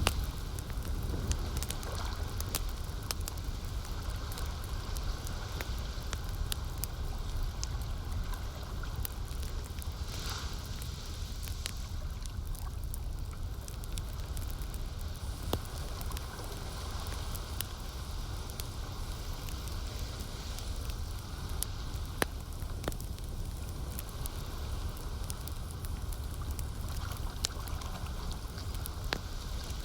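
Campfire crackling, with scattered sharp pops, over a steady low wash of lake water.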